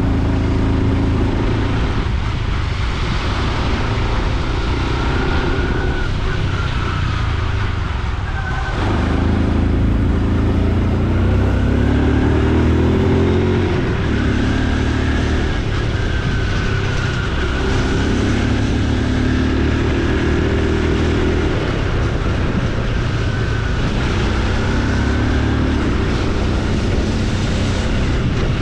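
Honda Super Cub C125's single-cylinder engine running on the road, its pitch rising and dropping several times as the bike accelerates and eases off, over a steady rush of wind and road noise.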